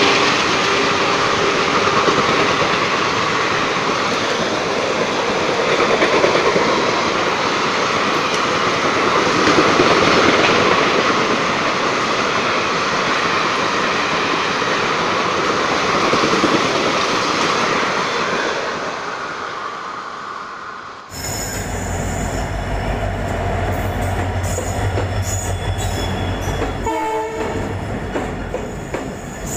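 Indian Railways passenger coaches running past at speed, a steady rushing of wheels on rail, with a train horn sounding and fading in the first couple of seconds. About 21 seconds in it cuts to a diesel locomotive passing close by, its engine a deep steady rumble.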